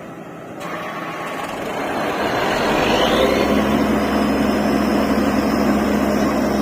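Borewell drilling rig's heavy engine and machinery running. The noise builds over the first three seconds, then holds steady and loud with a low hum.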